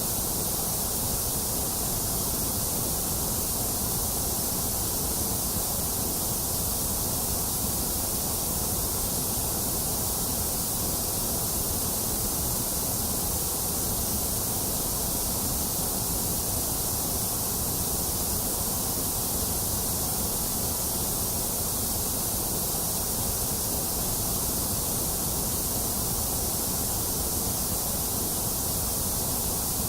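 Steady, unchanging electronic white-noise hiss, a baby-soothing sleep noise. It is slightly thinner in the middle frequencies than in the highs and lows.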